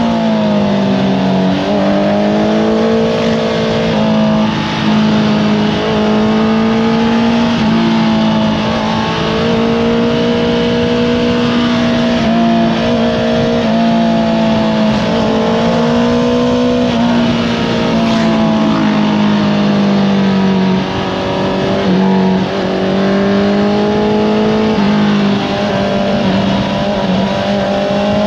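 Honda CBR650R's inline-four engine through an Akrapovič exhaust, revving up and down through a run of corners, its pitch rising under acceleration and dropping off again and again, with wind noise underneath.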